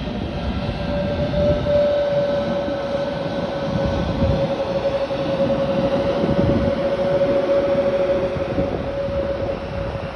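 Airliner jet engines running: a steady whine that drifts slightly lower in pitch, over a low rumble.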